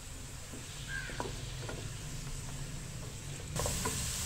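Mutton and peas frying in masala in a karahi, a faint sizzle with a few soft scrapes of a wooden spatula stirring the pan. The sizzle grows louder about three and a half seconds in.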